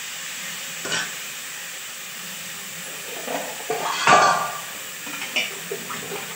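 Potatoes frying in oil in a kadai on a gas stove, a steady sizzling hiss. Kitchen utensils clink once about a second in and clatter about three to four and a half seconds in, the loudest part, with a few lighter clinks after.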